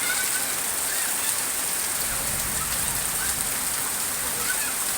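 Heavy tropical downpour: a dense, steady hiss of rain pouring down and drumming on surfaces.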